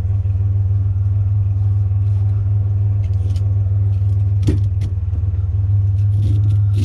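Pickup truck engine idling with a steady low hum, and a couple of short knocks about four and a half seconds in.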